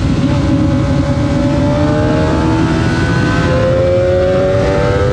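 A vehicle engine running hard under acceleration, its pitch rising gradually.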